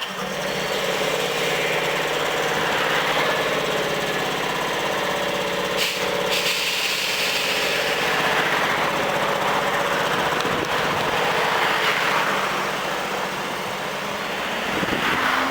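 Hankyu 7000 series electric train standing in the depot. Its onboard equipment starts abruptly and runs with a steady hum and a fast rattle. Near the end a rising whine from the field-chopper traction motors begins as the train starts to pull out.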